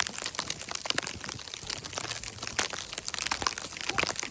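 Irregular crunching and crackling, a dense scatter of small clicks.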